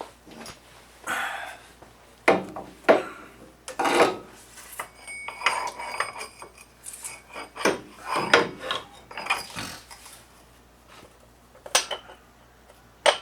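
Metal parts and hand tools knocking, clanking and scraping during work on a truck's front axle shaft, with several sharp metal hits and a brief ringing of struck metal.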